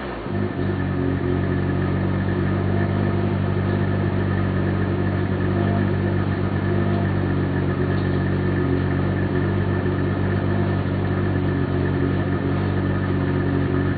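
Nissan Skyline GT-R BCNR33's RB26DETT twin-turbo straight-six idling steadily through its stock muffler, fed by a Fujitsubo equal-length front pipe and an Apex catalytic converter. It settles into the idle within the first half second after a rev.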